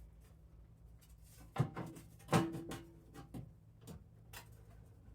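A Troy-Bilt snowblower's belly pan being handled and fitted back onto the machine: two sharp knocks, the second and loudest with a short ring, then a few lighter clicks.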